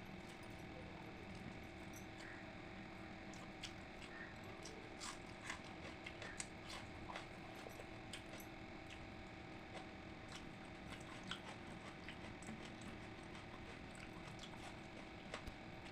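Faint close-up eating sounds of pakhala (watery fermented rice) with its side dishes: soft wet chewing and scattered small clicks and smacks at irregular intervals, over a steady background hum.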